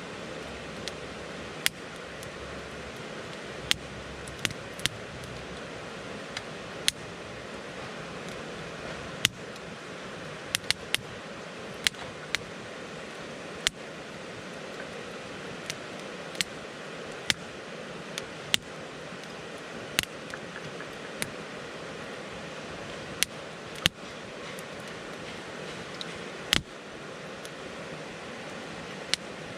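Wood campfire crackling: a steady hiss of burning with sharp pops and snaps scattered irregularly, about one a second.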